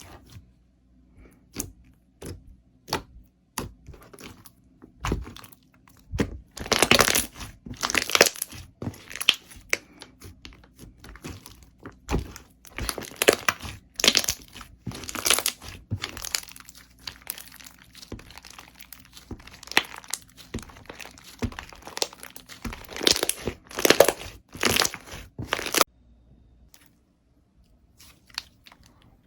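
Slime being pressed and stretched by hand, making crackling, crunching sounds. They come in several dense bursts, with sparse pops at the start and near the end.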